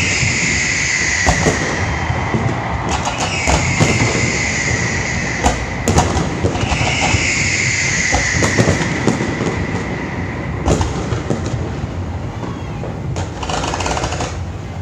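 Fireworks going off: a continuous low rumble with scattered sharp bangs, and three high whistles, each about two seconds long and sliding down slightly in pitch, in the first seven seconds.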